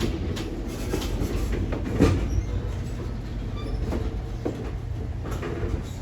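Railroad passenger cars rolling on track: a steady low rumble with scattered clicks and knocks from the wheels, and one sharper knock about two seconds in.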